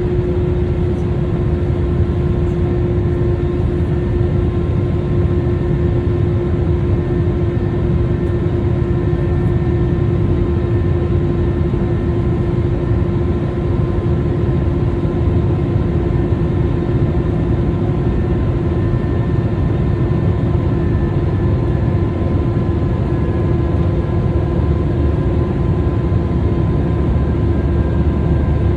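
Airliner jet engines running steadily, heard inside the passenger cabin: a loud low rumble with a few steady hums on top.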